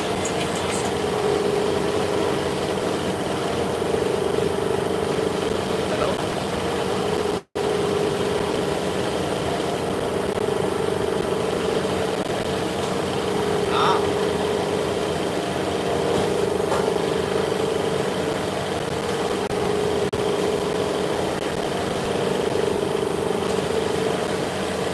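Steady hum of machine-shop machinery running, with a held mid-pitched tone. The sound cuts out for an instant about seven seconds in.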